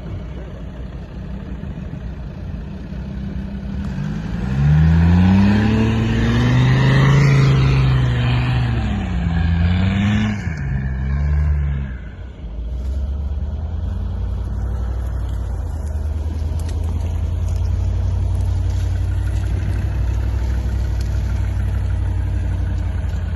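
4x4 SUV engine revving up about four seconds in, its pitch rising and wavering for several seconds, then dropping back about twelve seconds in to steady low running.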